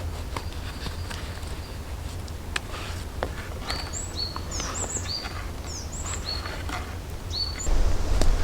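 A songbird sings a short phrase of repeated high, slurred whistled notes midway through, over scattered light clicks and ticks and a steady low rumble that swells louder near the end.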